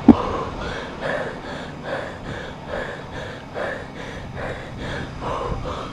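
A cyclist panting hard: quick, rhythmic breaths, about two a second, from the exertion of riding.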